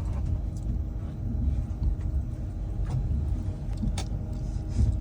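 Steady low rumble and hum of a train, with a few light clicks.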